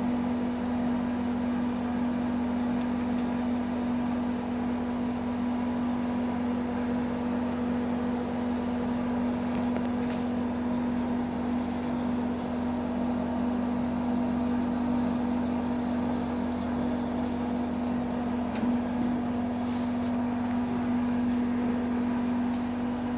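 Bingsu snow-ice machine running, a steady, unchanging motor hum.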